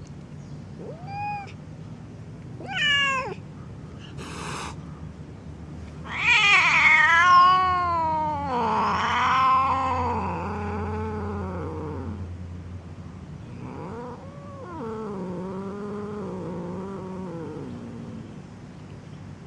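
Angry kitten yowling: two short meows, then a loud drawn-out yowl of about six seconds that wavers up and down in pitch, and after a short pause another long wavering yowl.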